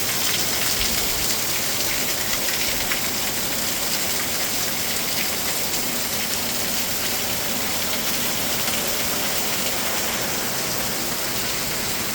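Heavy rain pouring down steadily, a dense even hiss of drops hitting surfaces with fine spattering ticks.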